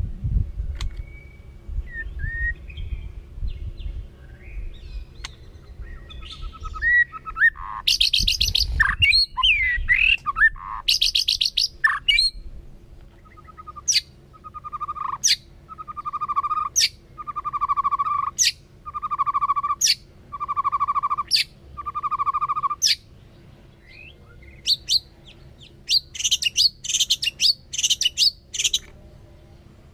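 White-rumped shama singing. A varied run of whistled phrases is followed by one phrase repeated seven times about every second and a half: a sharp high click, then a lower buzzing note. Quicker varied phrases return near the end.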